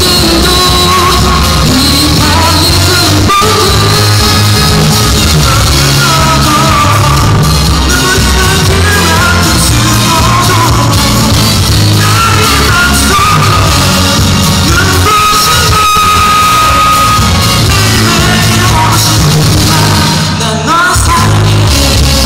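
Live band performance: loud music with a singer, strong bass and drums underneath. A long held vocal note comes about two-thirds of the way through.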